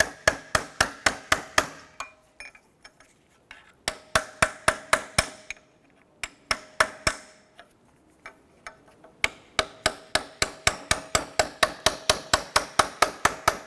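Hammer striking a flat-tipped punch wedged between a steel brake backing plate and a rear wheel hub. The blows come in quick runs of about four to five a second with short pauses between, each blow ringing. The tapping is to break the seized backing plate free from the hub.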